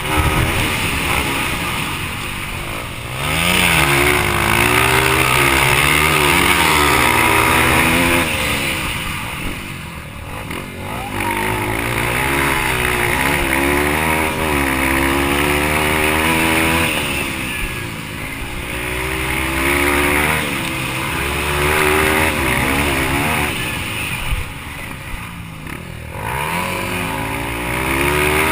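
Yamaha TT-R230 dirt bike's single-cylinder four-stroke engine revving up and falling back again and again as the throttle is opened and closed, its pitch climbing and dropping every few seconds.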